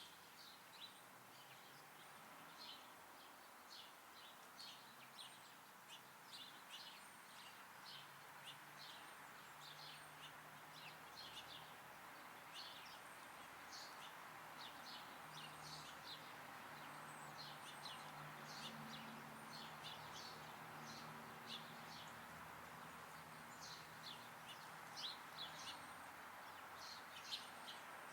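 Small songbirds chirping: many short, high chirps in quick succession, over a faint steady background hiss, with a faint low drone joining about a third of the way in.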